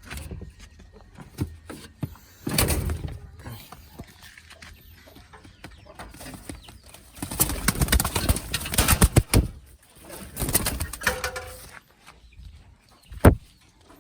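Domestic pigeons cooing, broken by several louder rustling bursts and one sharp knock near the end.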